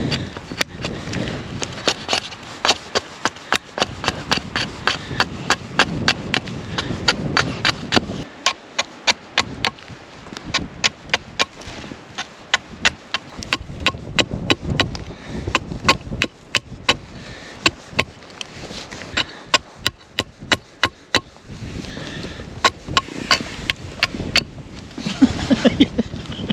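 A long series of sharp wooden knocks, irregular and about two or three a second, pausing briefly now and then.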